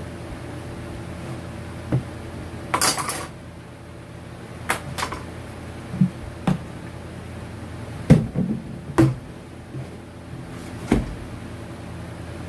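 Hard objects knocking and clattering as they are handled and set down, about a dozen separate knocks and short rattles, over a steady low hum.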